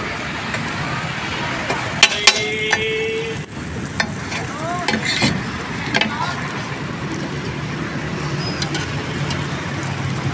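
Egg tikkis frying on a large tawa with a steady sizzle, and a metal spatula clinking against the griddle now and then, sharpest twice about two seconds in, over street traffic noise.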